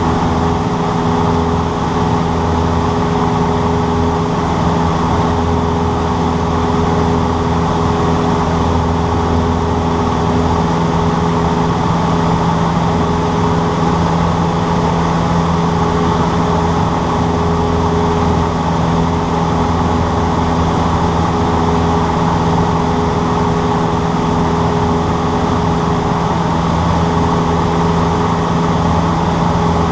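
Cessna 152's four-cylinder Lycoming engine and propeller running at a steady drone, with several constant tones that do not change.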